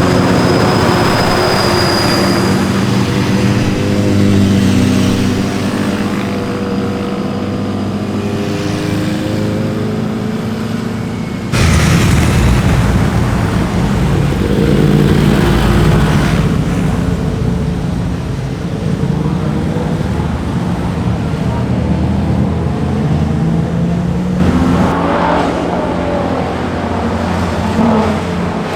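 Sport motorcycle engines revving and passing through curves, pitch rising and falling as they accelerate and shift, with sudden changes in the sound about a dozen seconds in and again near the end.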